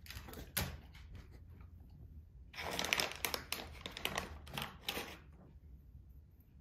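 A plastic treat bag crinkling as it is handled: a few scattered rustles first, then a busier stretch of crinkling lasting about two and a half seconds in the middle.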